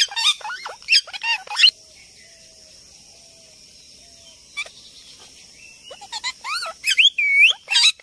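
A songbird chattering in quick bursts of squeaky, sliding notes, over a faint steady high hiss. The notes pause for a few seconds after the opening burst and start again about six seconds in.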